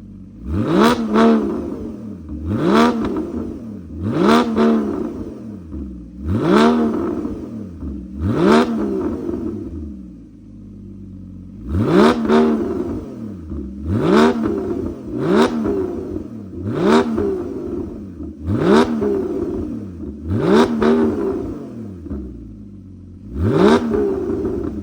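Porsche 981 Boxster's flat-six engine being blipped over and over: about a dozen sharp revs, each climbing quickly and falling back to idle, with a short pause at idle near the middle.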